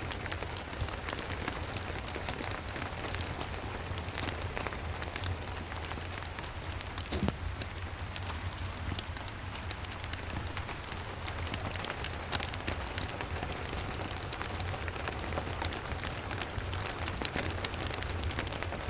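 Steady rain with the crackle of a wood fire, a continuous hiss dense with small ticks and pops over a low rumble. One sharper pop comes about seven seconds in.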